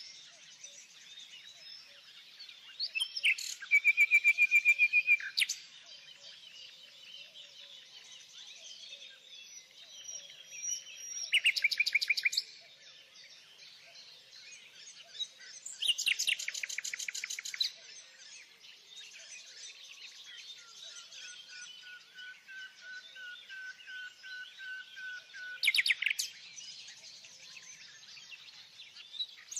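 Songbirds singing: a steady background of chirping, broken four times by a loud, fast trilled song phrase of a second or two. One long, thin, steady whistled note is held for about five seconds in the second half.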